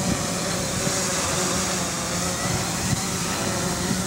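FreeX SkyView quadcopter's motors and propellers running steadily in flight, a constant whir with a hiss of wind over it.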